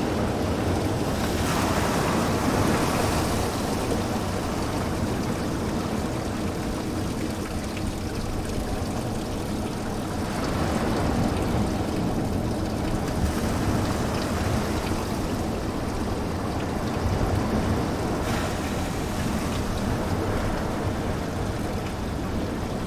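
Ocean waves breaking and washing onto a beach, swelling in surges about every eight seconds over a steady low rumble.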